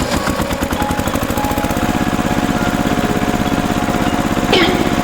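Mini tractor engine running with a fast, even chugging beat. A short swooping tone sounds about four and a half seconds in.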